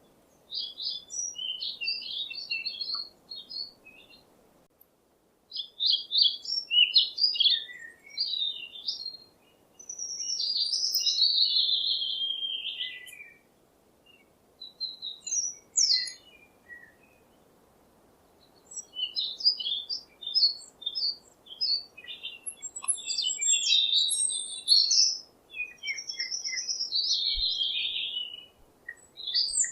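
Songbird singing in phrases a few seconds long: quick high chirps and trills mixed with longer slurred notes that slide down in pitch, with short pauses between phrases.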